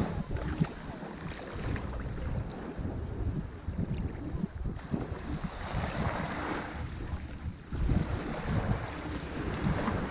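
Ocean waves washing onto a shore, the surf swelling to a louder hiss about six seconds in and again near the end, with wind buffeting the microphone as a gusty low rumble.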